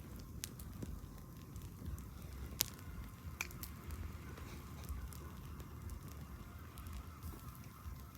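Wood campfire crackling, with scattered sharp pops, the loudest about two and a half seconds in, over a low steady rumble.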